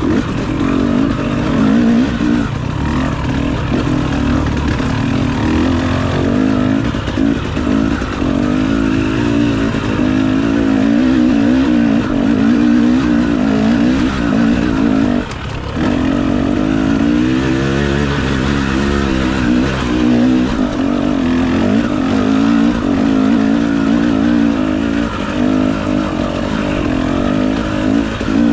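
Enduro dirt bike engine running under load, its pitch rising and falling as the throttle is opened and closed, with a brief drop in power about fifteen seconds in.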